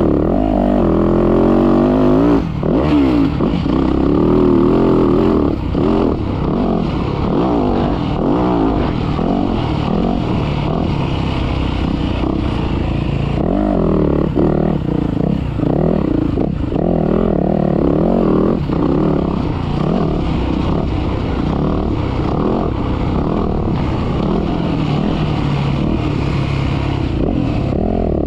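Motocross dirt bike engine revving up and down continuously as it is ridden hard, the pitch rising and dropping every second or two with throttle and gear changes.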